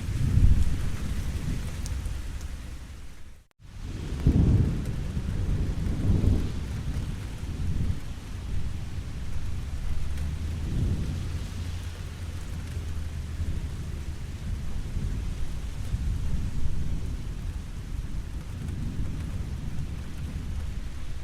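Steady heavy rain with low rolling thunder that swells and fades several times, the loudest rumble near the start and another just after a split-second dropout in the sound about three and a half seconds in.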